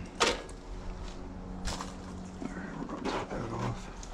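Three puffs from a beekeeper's bellows smoker, about a second and a half apart, over the steady hum of honey bees.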